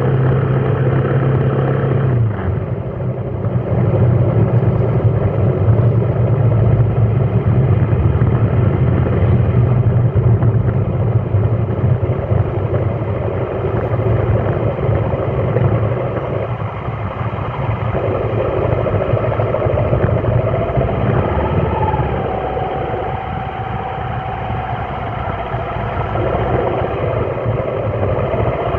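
Vehicle engine running at low speed in a traffic jam, a steady low hum with traffic noise around it; the hum changes pitch about two seconds in.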